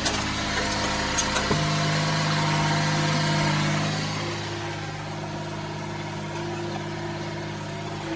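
Yanmar B22 mini excavator's diesel engine running under hydraulic load, played at double speed. About a second and a half in its note steps up and grows louder for a couple of seconds, then eases back. A few sharp knocks come in the first second or so.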